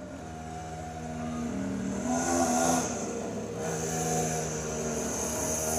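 Mini motocross bike engine revving up and down several times, its pitch rising and falling, getting louder as the bike comes closer.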